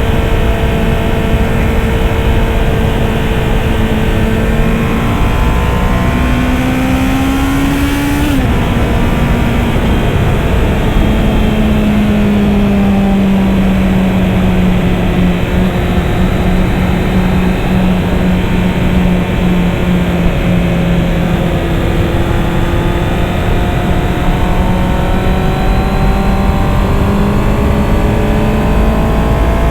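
Honda CB650R's inline-four engine pulling under way: its pitch climbs for a few seconds, drops sharply at a gear change about eight seconds in, then holds steady and sinks slowly before rising a little near the end, over a steady rush of wind noise.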